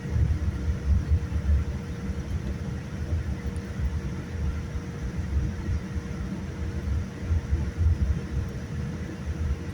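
Boeing 787-9 cabin noise: a heavy, uneven low rumble with a faint steady hum, as heard from a passenger seat.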